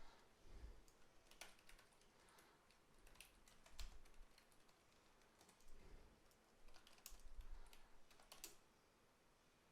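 Faint, irregular keystrokes on a computer keyboard as lines of text are typed.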